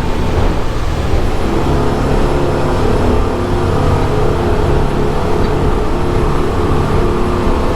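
Twin Suzuki outboard motors (700 hp combined) running hard as the boat carves tight, high-speed turns. The engine note shifts slightly in pitch over a steady rush of noise.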